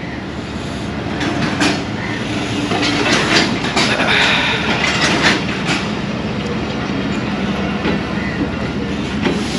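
Passenger train's coaches rolling past as it pulls out of the station, the wheels clattering over the rail joints with a steady rumble. It grows louder over the first few seconds and then holds.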